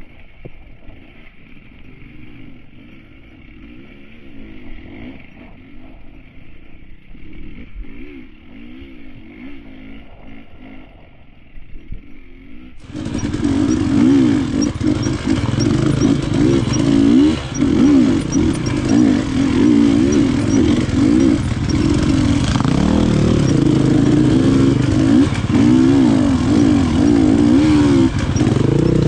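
KTM enduro motorcycle engine revving up and down continuously while riding off-road, the pitch rising and falling with the throttle. The sound is muffled for about the first half, then becomes much louder and fuller about thirteen seconds in.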